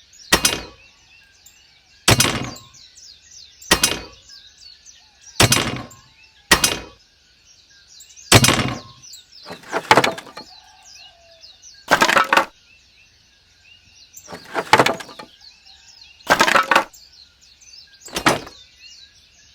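A series of about eleven sharp cracking impacts, one every one and a half to two seconds, each fading out quickly. Birds chirp steadily behind them.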